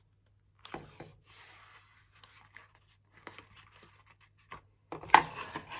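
Paper and cardboard being handled on a work surface: rustling and light scraping with small knocks in short bursts, loudest about five seconds in.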